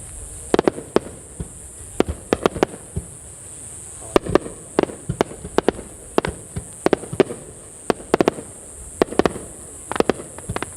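Aerial fireworks bursting: many sharp bangs and crackles in irregular clusters, over a steady high hiss.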